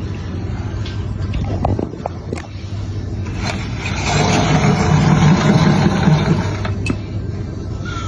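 A motor vehicle passing close by over a steady low hum: its noise builds from about three and a half seconds in, is loudest around five to six seconds, and fades by about seven seconds.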